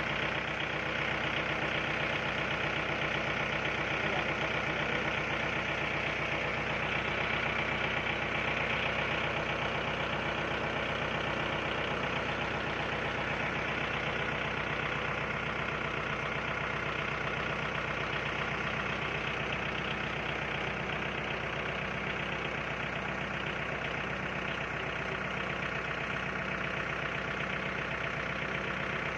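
Diesel tractor engine idling steadily at an even speed, with no revving.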